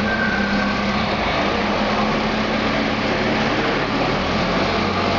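An engine running steadily with a constant drone.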